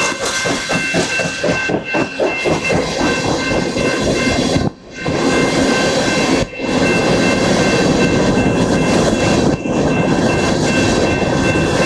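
Train rolling past on the track: wheels clicking rhythmically over rail joints for the first couple of seconds, then a steady rumble and hiss, broken by brief dropouts about five, six and a half and ten seconds in.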